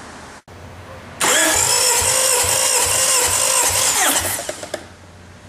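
Starter motor cranking a Honda F22B DOHC inline-four for about three seconds: a loud steady whine with pulses under it. It then cuts off, leaving a quieter steady sound.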